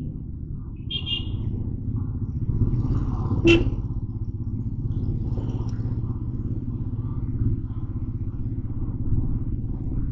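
Motorcycle engine running with road noise while riding in city traffic, a steady low rumble. A short high beep comes about a second in, and a brief sharp sound stands out about three and a half seconds in.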